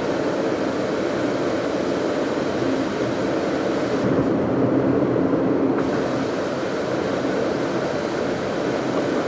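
A car driving at steady speed, heard from inside the cabin: an even rumble of road and engine noise.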